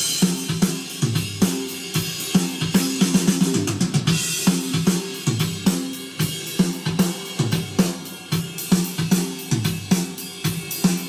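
Rock drum kit playing a steady beat of kick drum, snare, hi-hat and cymbals, with many close-spaced strikes.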